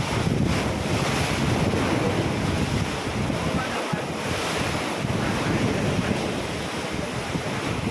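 Ocean waves splashing and washing in steadily, with wind buffeting the microphone as a low rumble.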